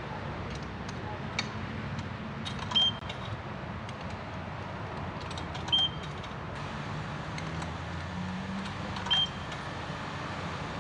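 Self-service car wash bay: a steady rushing noise with three short, high-pitched beeps about three seconds apart.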